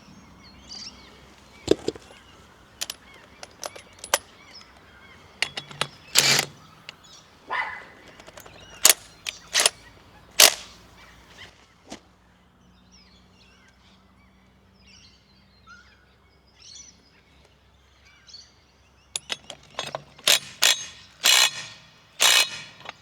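Sharp metallic clicks and knocks of hand tools working a small nut and bolt, the bolt being forced until it snaps. The knocks come in scattered groups, with a quieter stretch in the middle where birds call faintly.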